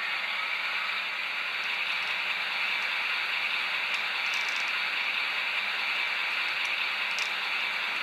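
Bemo MK45 model locomotive fitted with a sound decoder, giving a steady hiss with a few faint clicks.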